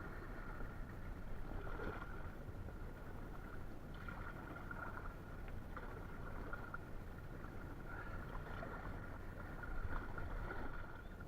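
Canoe paddle strokes in river water from an inflatable canoe, a swell of splashing and dripping about every two seconds, over a steady faint high tone.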